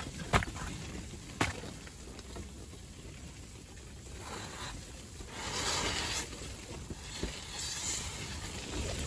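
Strong wind rushing over the ice in gusts, swelling in bursts over the second half, with two sharp clicks near the start.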